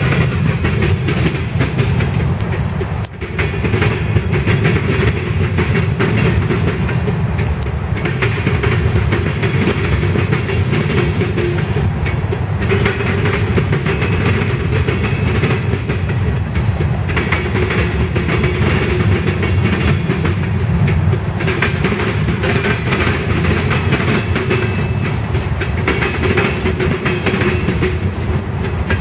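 Freight train of grain cars rolling steadily past, with continuous wheel-on-rail rumble and the clickety-clack of wheels over rail joints.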